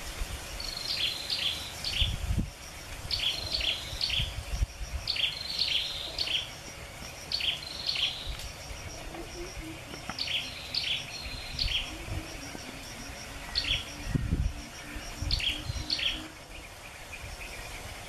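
A songbird calling: short, sharp chirps in quick groups of two or three, repeated every second or two, stopping shortly before the end. A faint fast ticking, like an insect, runs underneath, with a few low thumps.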